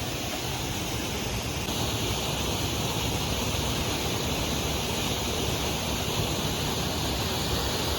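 Steady rush of water from a multi-tiered waterfall, growing a little louder and brighter about two seconds in.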